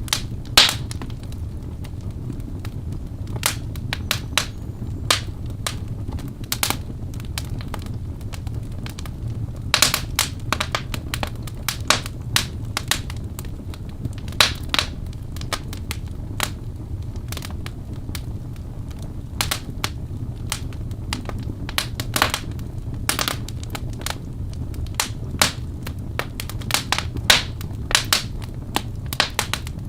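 Wood fire burning in a fireplace: a steady low rumble of flames with frequent irregular crackles and sharp pops from the burning logs, in clusters now and then.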